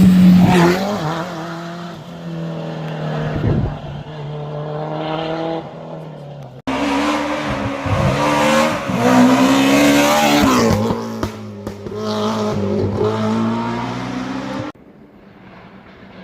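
Historic rally car engines running hard at speed, pitch rising and falling as the drivers rev and change gear. Two loud passages are joined by sudden cuts, and the last second or so is much quieter.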